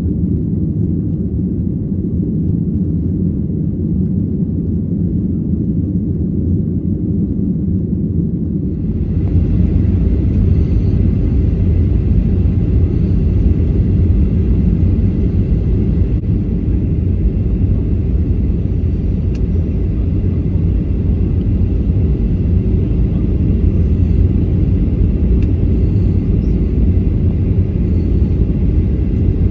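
Steady low rumble of a Boeing 737-800's CFM56 engines and airflow, heard inside the passenger cabin. About nine seconds in it changes abruptly to a louder, fuller noise with more hiss.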